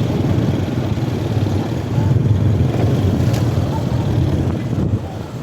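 Steady low engine rumble on a river ferry, swelling a little about two seconds in.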